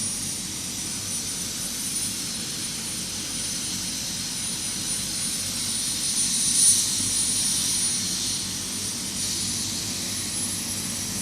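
Helicopter turbine engine running: a steady rush of noise with a thin high whine over it, briefly louder about six and a half seconds in.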